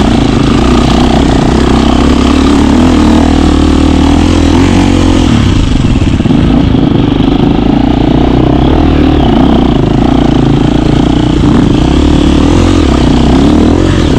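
KTM 350 dirt bike's single-cylinder four-stroke engine running loud while riding. The engine speed rises and falls with the throttle and eases off briefly about a third of the way in.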